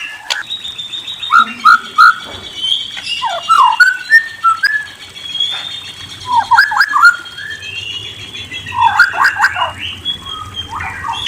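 Murai songbird singing a varied song of clear whistles and trills, with clusters of rapid sweeping notes every couple of seconds over higher whistled phrases.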